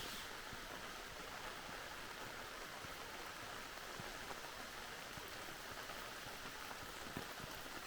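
Steady rain falling, a constant even hiss of water, with a few sharper drop hits near the end.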